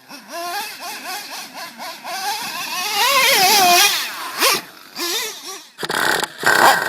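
Small nitro RC truck engine revving, its pitch rising and falling repeatedly with throttle blips, then turning harsher and choppy near the end.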